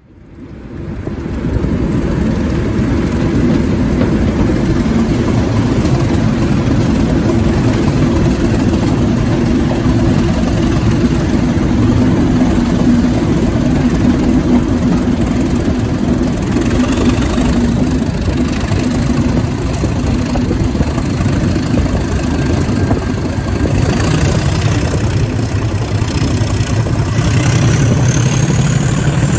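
Diesel locomotive engine running steadily with a deep, even tone. Near the end the engine note rises and a high whine climbs alongside it.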